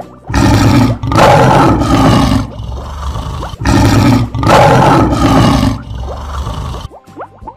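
Lion roar sound effect, heard twice, each roar swelling in two loud surges, with a quieter rumble trailing off after the second.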